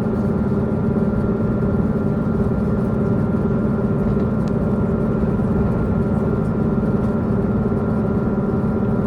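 Diesel multiple-unit Tze-Chiang Express heard from inside the passenger car: the underfloor diesel engine hums steadily with a constant low rumble of the running train.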